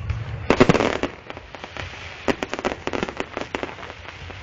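Fireworks going off: a dense run of loud cracks and bangs about half a second in, then scattered sharp crackling pops.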